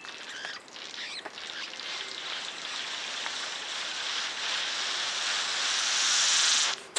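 King of Saxony bird-of-paradise calling: an alien-sounding screech like radio static. It grows louder toward the end and cuts off suddenly.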